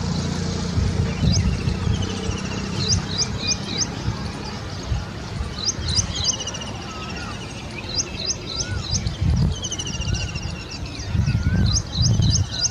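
Birds calling: every couple of seconds a phrase of three or four quick, high chirps followed by a thin falling trill, with lower wavering whistled notes joining in the second half, over a steady low rumble.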